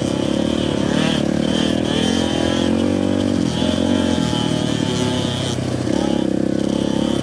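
Dirt bike engine running, its pitch rising and falling as the throttle is worked on and off.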